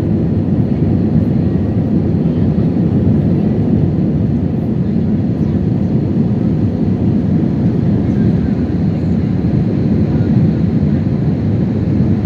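Jet airliner cabin noise after takeoff: a steady, low rumble of the engines and rushing air heard from inside the passenger cabin.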